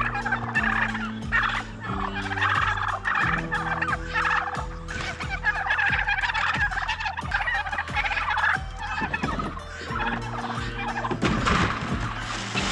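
Poultry calling continuously in a dense, fast chatter, over steady low tones that change pitch every few seconds.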